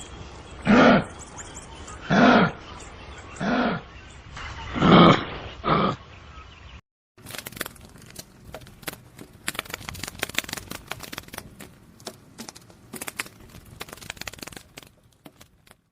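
A large animal giving five short, loud calls about a second and a half apart. After a brief break, a run of irregular sharp clicks and crackles follows.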